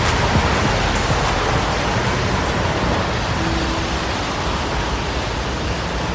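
Touchless automatic car wash spraying a car with high-pressure water jets, a steady rushing hiss that eases slightly toward the end.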